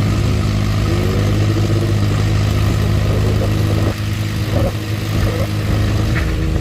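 Antique farm tractor engine running hard and steady under load, its sound dropping and changing at about four seconds in as the throttle eases.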